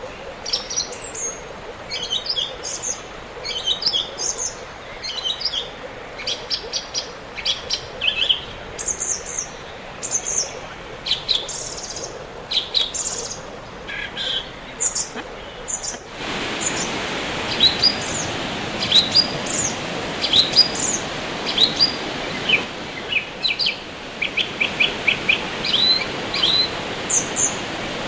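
Wild birds chirping, with many short high calls and quick trills, over a steady rushing hiss that steps up suddenly about halfway through.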